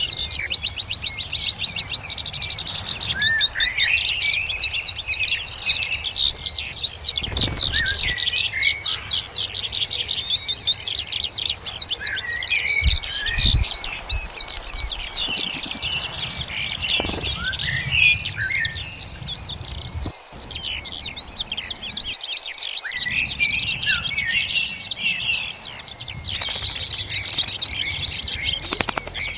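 Many small songbirds chirping and calling at once, a dense run of quick overlapping chirps that is busiest in the first few seconds.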